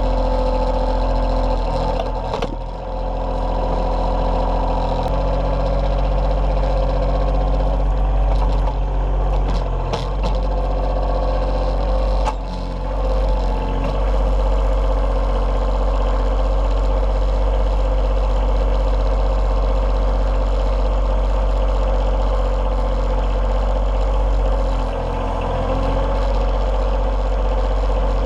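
Kioti CK2620 compact tractor's three-cylinder diesel engine running steadily, with a few sharp knocks about two, ten and twelve seconds in.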